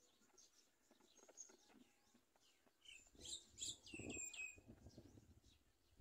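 Faint, high-pitched bird chirps and short falling whistles, clustered about three to four and a half seconds in, over a low rumble.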